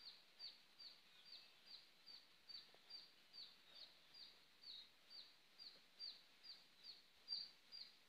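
A bird calling faintly and steadily: a regular series of short, high notes, each dipping slightly in pitch, about two or three a second.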